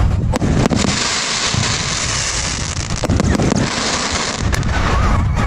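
Firework cake firing: sharp launch bangs near the start, again about three seconds in and just before the end, with a dense crackling hiss of bursting stars in between and a low rumble underneath.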